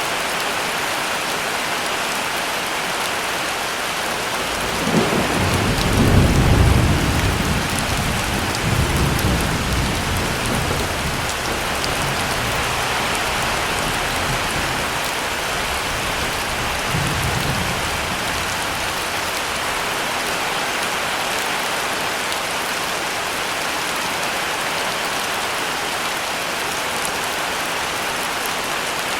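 Steady heavy rain falling, with a roll of thunder that rumbles in about five seconds in, peaks soon after and fades away over the next several seconds, followed by a fainter distant rumble a little later.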